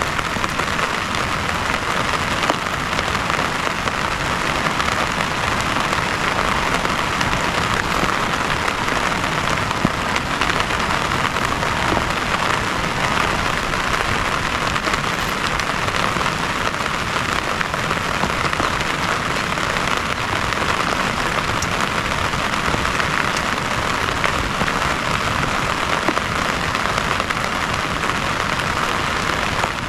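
Heavy rain falling steadily, a continuous hiss with scattered drop taps.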